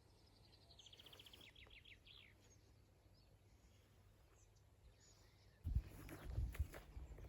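A small songbird sings one short song about a second in: a fast trill that steps down in pitch, ending in a few louder down-slurred notes. Near the end, footsteps begin, a series of uneven low thuds.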